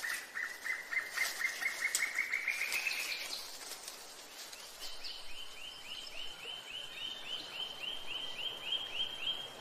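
Rainforest birdsong: a long series of short notes, about five a second, slowly rising in pitch. After a short pause a higher series of about four notes a second follows.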